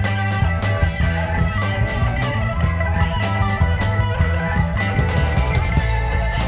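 Instrumental surf rock played live by a band: electric guitar and bass over a drum kit with a steady, driving beat.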